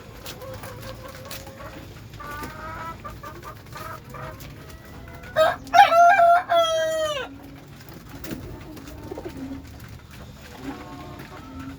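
A rooster crows once, loud, about five seconds in, a call of about two seconds that drops in pitch at the end. Pigeons coo softly, with fainter fowl calls before the crow.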